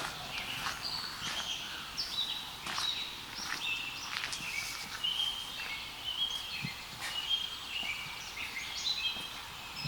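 Several birds singing and chirping together: many short whistled notes at shifting pitches, overlapping throughout, with a few sharp clicks among them.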